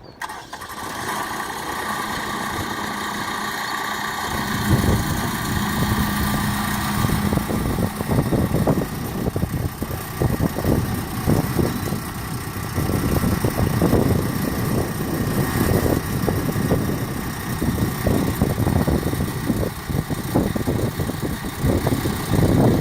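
Compact diesel tractor engine running. It comes in abruptly at the start with a steady whine, and a heavier, uneven low rumble joins about four seconds in.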